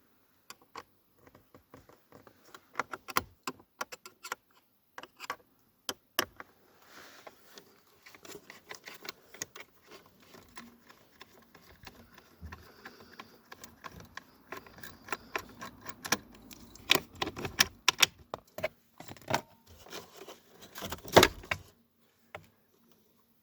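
Irregular clicks, taps and rattles of tools and plastic dashboard trim being handled while the headlight-range adjustment switch is worked out, busier and louder in the last third.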